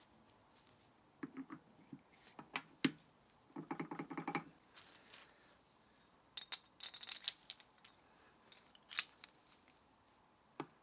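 Metal gearbox parts and hand tools being handled: several short bursts of clinking and rattling, a brighter metallic jingle about two-thirds of the way through, and a couple of single clicks near the end.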